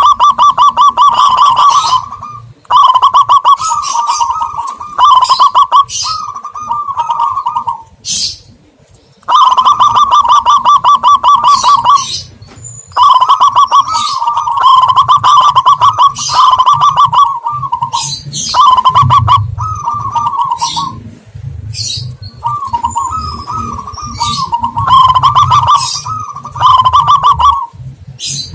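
Doves cooing loudly in a zebra dove and spotted dove lure recording: repeated fast trilled phrases of one to three seconds each, separated by short pauses, with higher chirps over them.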